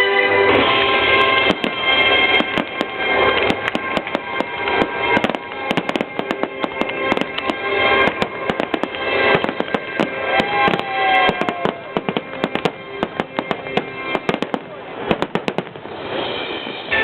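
Fireworks bursting and crackling in rapid, irregular succession, thickest near the end, over music playing with the display.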